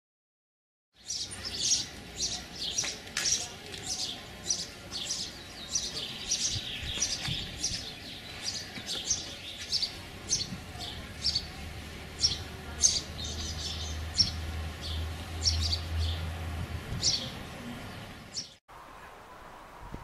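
Small birds chirping and twittering, many short high calls several a second, starting about a second in and cutting off suddenly near the end, with a low hum underneath in the second half.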